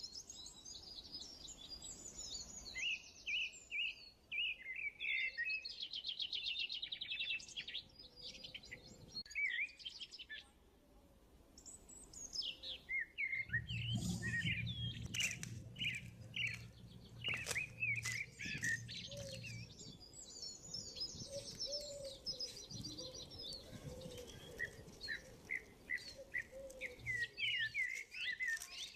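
Small birds chirping and twittering in quick high calls and rapid trills, with a short lull about ten seconds in. A low hum and a few sharp clicks come in for several seconds midway.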